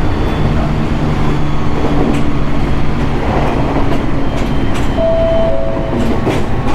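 Interior running noise of a JR East 701 series electric train: a steady rumble with humming motor tones. A higher tone comes in about five seconds in and steps down in pitch. Scattered sharp clicks from the wheels run over rail joints.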